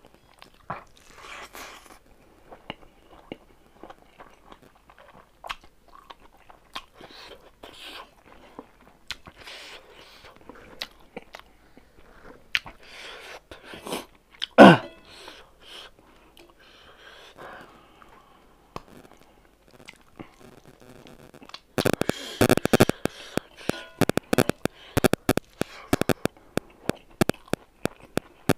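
Close-up eating sounds: a person chewing mouthfuls of rice and smoked pork, with wet mouth clicks and smacking. About halfway through there is one loud, short sound that falls sharply in pitch, and over the last few seconds the chewing turns into louder, rapid clicking and crunching.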